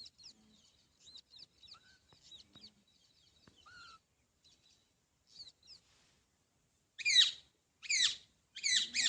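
Alexandrine parakeet chirping and chattering softly. About seven seconds in it breaks into loud, harsh screeching calls, each falling in pitch: two single calls a second apart, then a quicker run of them.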